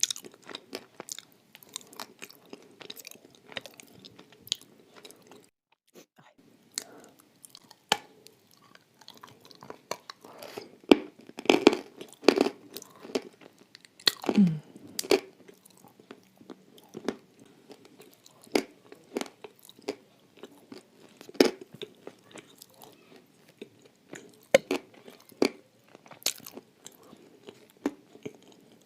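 Close-up crunching and chewing of dry eating clay coated in clay paste: irregular sharp crunches, heavier and louder about a third of the way in, then lighter chewing.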